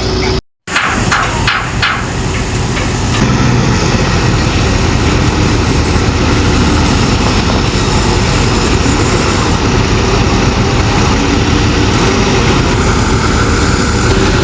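Heavy diesel machinery engine running steadily, with a few sharp metallic knocks in the first couple of seconds.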